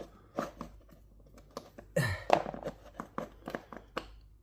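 Scattered light clicks and knocks from tools and parts being handled, with a louder scrape or rustle about two seconds in.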